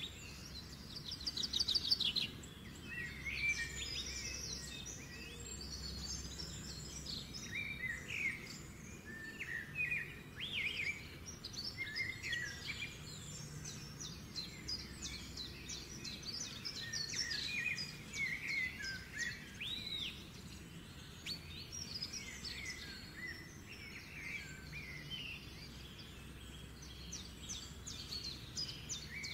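Small birds chirping and twittering: many short calls and quick trills, one after another, over a faint low hum.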